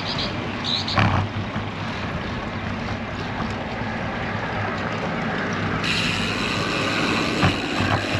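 Strong headwind rushing over the microphone of a bicycle-mounted camera, mixed with the road bike's tyre noise on the pavement. There is a short knock about a second in, and a higher steady hum joins about six seconds in.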